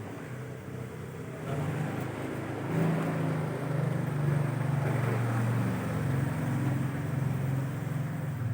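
A motor vehicle's engine running, with a low steady hum that grows louder about a second and a half in and stays up.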